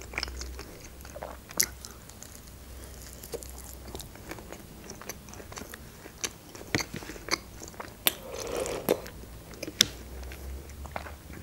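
Close-miked chewing of a doner wrap, with wet mouth clicks and small crunches scattered irregularly throughout.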